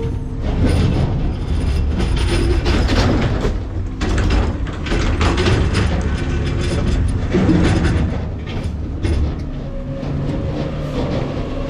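McNeilus ZR rear-loader garbage truck's packer compacting trash in the hopper: the truck's engine and hydraulics running under load, with many cracks and crunches as bags and their contents are crushed.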